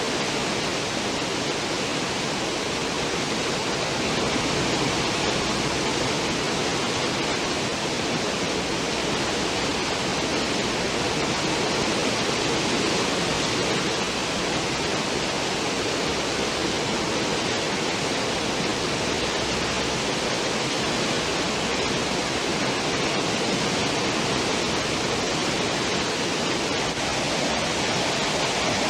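Cruise ship's wake churning at the stern: a steady rushing of foaming water.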